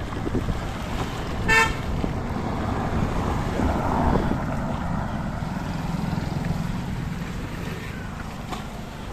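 A single short vehicle horn beep about a second and a half in, over a steady low rumble of wind on the microphone and road noise from riding.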